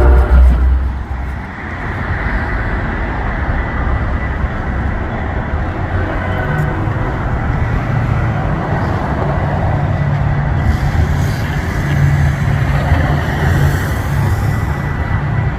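A train horn blast cutting off about half a second in, then a train rolling by with a steady rumble and wheel noise.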